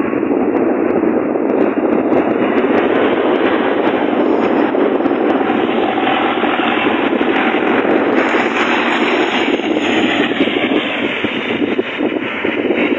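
Loud, continuous crackling rush of wind buffeting the microphone in a moving car, mixed with road noise.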